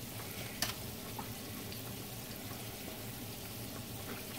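Chicken drumsticks frying in hot oil in a skillet, a steady sizzle, with one sharp click about half a second in.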